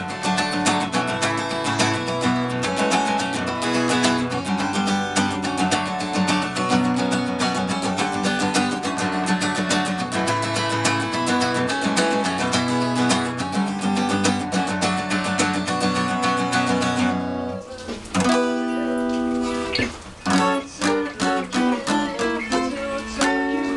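Instrumental passage of a song: acoustic guitar strumming steadily. About 17 seconds in the strumming stops and gives way to a sparser, choppier passage of separate held notes and chords.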